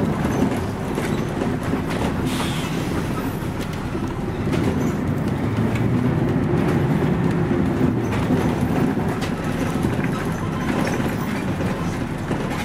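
Scania CN113CLL city bus running, heard from inside the cabin: a steady drone from its Scania DSC 11.71 diesel engine, with scattered short clicks and rattles from the bodywork.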